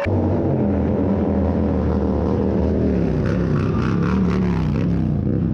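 Motorcycle engine revving, its pitch rising and falling over and over.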